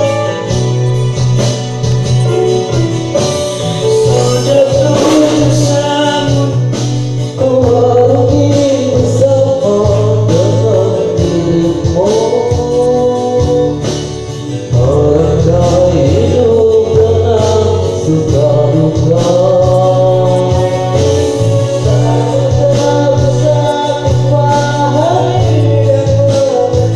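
A voice singing a sholawat, an Islamic devotional song, in a wavering melodic line over steady instrumental backing.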